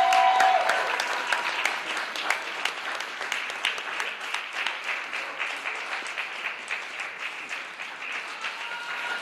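Audience applauding, growing gradually quieter. A held high-pitched cheer from the crowd ends about half a second in.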